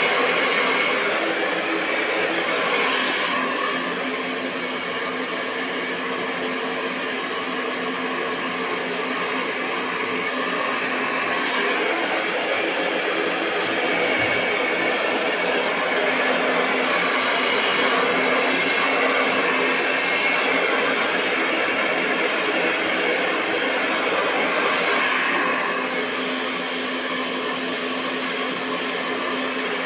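Hair dryer running continuously: a steady rush of blown air over a low, even motor hum, the level swelling and easing gently over several seconds.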